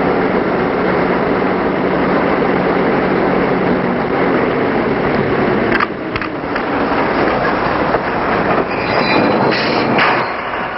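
Freight train noise: a steady rumble and clatter of railroad cars, with a few brief high-pitched squeals near the end.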